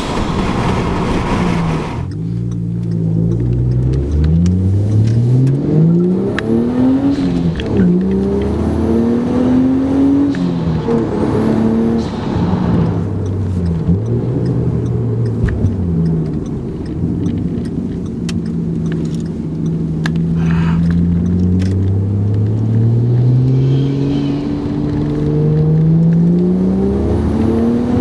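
FG Falcon XR6 Turbo's turbocharged 4.0-litre straight-six, with its middle muffler removed from a 3-inch exhaust, accelerating and backing off again and again, its pitch climbing and dropping every few seconds as it changes gear. A faint high rising whistle comes in at times.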